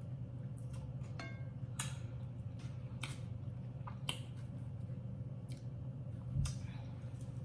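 Close-up eating sounds of saucy chicken wings: a few sharp wet smacks and clicks of lips and teeth, the loudest near the end, over a steady low hum.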